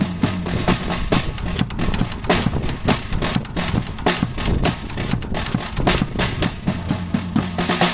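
Acoustic drum kit played in a fast, busy solo, with bass drum and snare strokes in quick succession.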